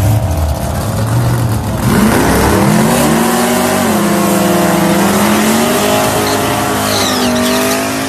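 1996 Chevrolet Impala SS with a swapped-in supercharged LSA V8 doing a burnout. The engine runs at lower revs at first, revs up sharply about two seconds in and is held high and steady with the rear tyres spinning, then eases off near the end.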